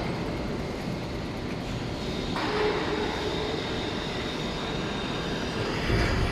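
Injection moulding machine running a 16-cavity mould for 8.5 g water-bottle preforms: a steady mechanical whir and rumble that grows louder and hissier about two seconds in, with a low thump near the end.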